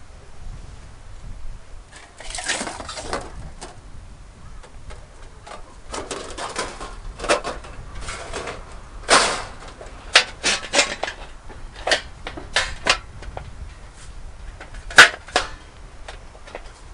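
Irregular series of knocks and clatters, with a longer rustling stretch about two seconds in; the sharpest knock comes near the end.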